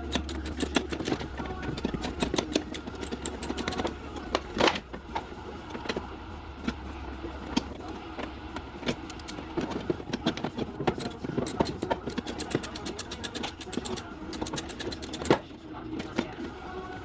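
Hand tools at work on a car body: fast runs of metallic clicks and scattered knocks, over a low hum that stops about halfway through.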